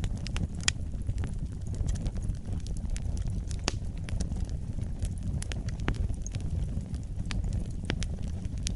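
Fireplace fire crackling: a steady low rumble of burning with frequent sharp, irregular pops and snaps.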